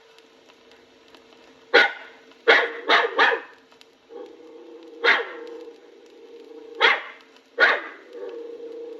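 A dog barking sharply, seven barks in uneven groups: three in quick succession, then single barks spaced a second or more apart.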